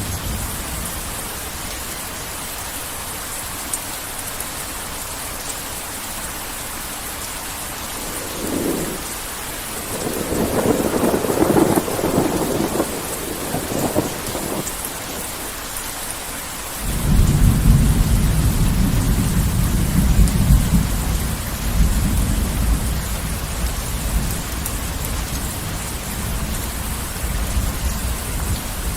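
Heavy rain falling with a steady hiss, with rolls of thunder: a rumble building and fading in the middle, then a loud deep clap that starts suddenly a little past halfway and rolls away slowly.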